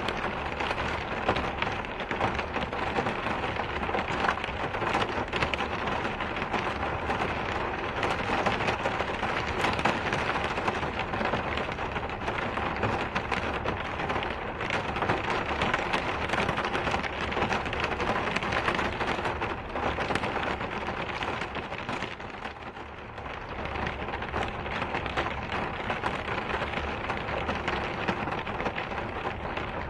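Steady, heavy rain falling and pattering on surfaces, easing slightly about two-thirds of the way through.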